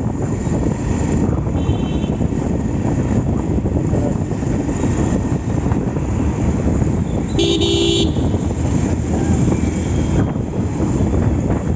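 Steady motorcycle riding noise of engine and wind rumble in city traffic, with a vehicle horn sounding loudly for about half a second a little past halfway, and a fainter short horn about two seconds in.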